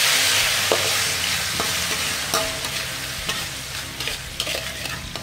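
Garlic and freshly added sauce sizzling in a hot wok while a spatula stirs them, scraping and tapping against the pan several times. The sizzle is loudest at first and gradually dies down.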